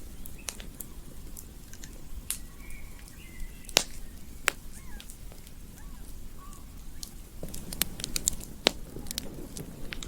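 Campfire crackling, with sharp pops scattered through and a quick cluster of them in the last few seconds, over a low steady rumble. Faint chirping calls sound in the background.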